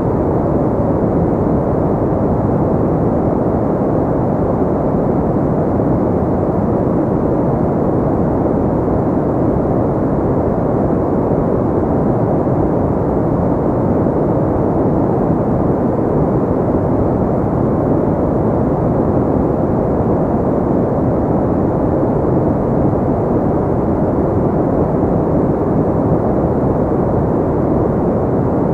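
Steady, unbroken white noise, filtered deep and muffled, with no high hiss.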